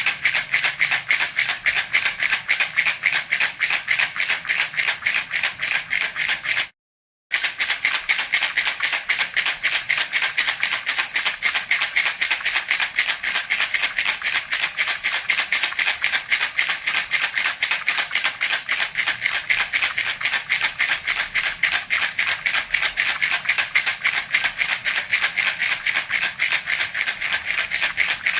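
A baby's rattle (jhunjhuna) shaken steadily, several shakes a second, its beads rattling bright and high. It breaks off completely for about half a second about seven seconds in, then carries on the same way.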